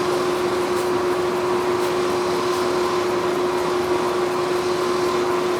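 Forge running: a steady mechanical rushing hum with a constant tone over it, unchanging throughout.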